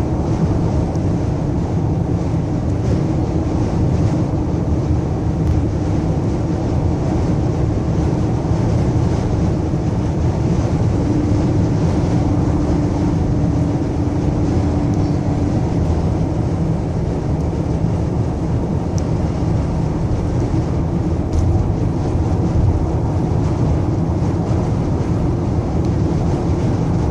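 Steady low road and engine noise inside a moving vehicle, with a faint hum that grows louder for a few seconds midway.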